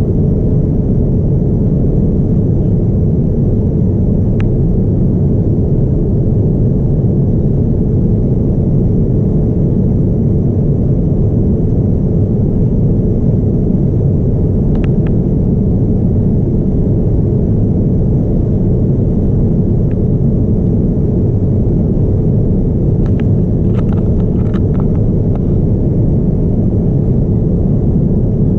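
Steady roar of a Boeing 787-9 airliner heard inside the passenger cabin over the wing: engine and airflow noise, deep and unchanging, with a faint steady hum. A few faint clicks sound midway and near the end.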